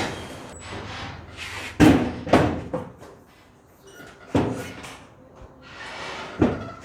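Toolboxes being unpacked and handled: a series of knocks and bangs, four sharp ones, the loudest about two seconds in, with scraping and rustling between.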